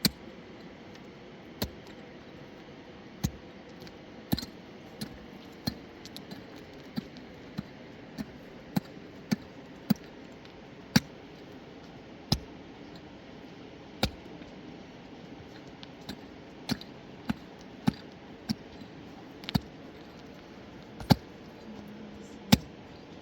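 A series of sharp, short knocks or taps, about one a second and unevenly spaced, sometimes in quick runs, over a steady background hiss.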